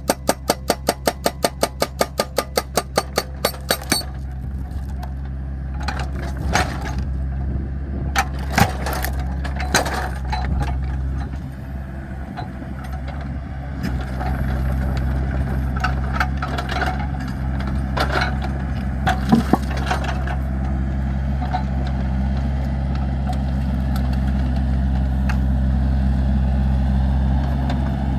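Excavator diesel engine running steadily while logs are split, with sharp wood cracks and knocks scattered through the middle. A fast run of regular clicks, about seven a second, opens and stops about four seconds in.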